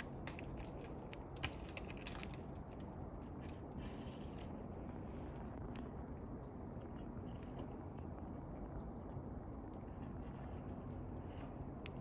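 Small birds chirping outdoors: short, high single notes every second or two, over a steady low background rumble. A cluster of sharp clicks and ticks comes in the first two seconds or so, one of them loud.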